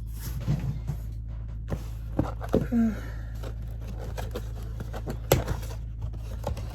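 Handling of a cardboard takeout box and its food packaging: scattered light knocks and rustles over a steady low hum, with a brief murmur of voice about two and a half seconds in.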